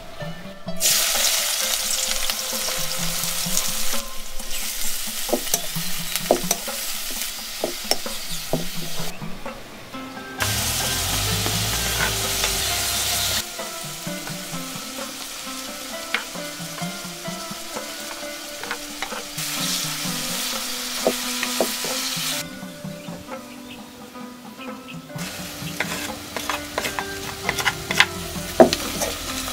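Sliced onions, garlic and green chilies frying in hot coconut oil in a metal pan: a loud sizzle, with a spoon stirring and clicking against the pan. The sizzle swells and drops off abruptly several times.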